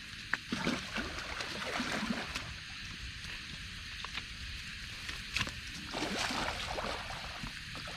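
Water sloshing and splashing at the river's edge, with a few sharp clicks, over a faint steady high chirring of night insects.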